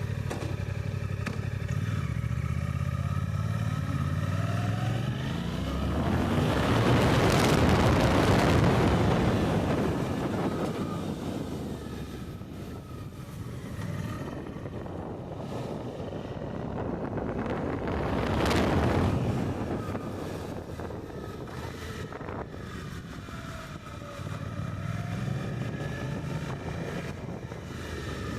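Suzuki GSX-8R's parallel-twin engine accelerating hard through the gears, its pitch climbing and dropping back at each upshift. Twice a loud rush of wind at speed swamps the engine, and near the end the engine climbs through the gears again.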